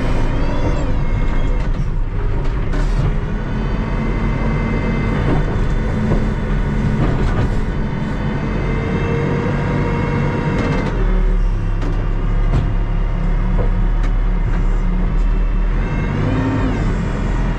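Terex TLB-815 backhoe loader's diesel engine running steadily, its pitch rising and falling several times as the machine works.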